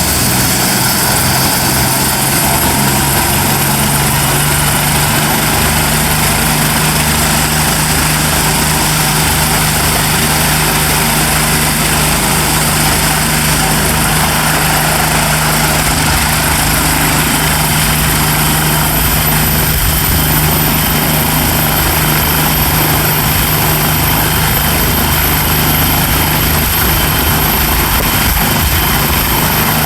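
Bell turbine helicopter running steadily: the rotor beating and the turbine whining, with a high whine that grows stronger past the middle.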